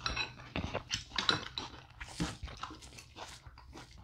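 Two people chewing and crunching a mouthful of Honey Bunches of Oats cereal with bananas and milk, in many small irregular crunches.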